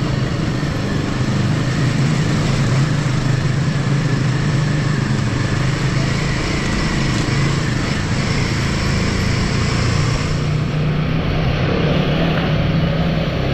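Royal Enfield motorcycle engine running steadily under way at an even pitch.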